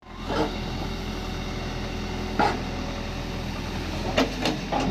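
Caterpillar 424 backhoe loader's diesel engine running steadily, with a few short, sharper sounds over it: one about half a second in, one midway, and three close together near the end.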